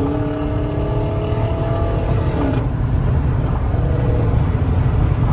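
Car engine pulling hard under acceleration, its pitch slowly rising for about two and a half seconds before it eases off, over a steady low road and exhaust rumble.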